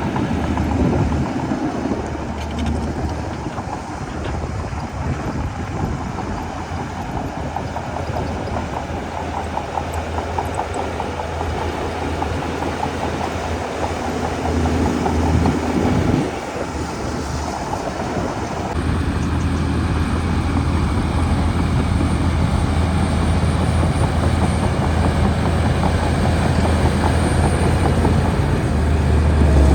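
Diesel engine of a Shantui DH17C2 crawler bulldozer running steadily under work, with a steady low hum and a dense mechanical rattle. The sound changes a little over halfway through, then runs on slightly louder.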